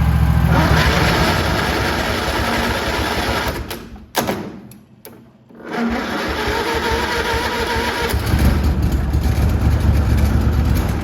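Craftsman riding mower engine cranking on its electric starter in two long tries, with a pause and a click about four seconds in. It is being jump-started off another mower's battery and does not catch.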